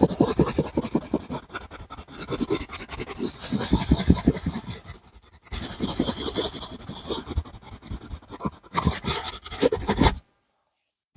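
A drawing tool scratching on paper in rapid back-and-forth colouring strokes. There is a brief pause about halfway through, and the sound cuts off abruptly to dead silence near the end.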